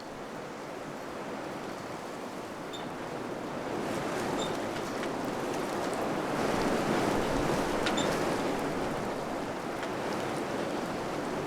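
Wind blowing through a village, a gust swelling to its loudest about two-thirds of the way in and then easing, with a few faint ticks.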